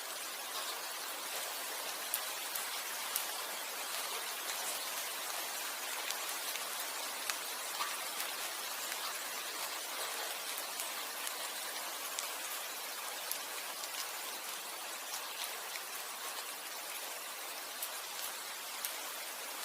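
Rain falling steadily as an even hiss, with many individual drops landing as scattered sharp ticks.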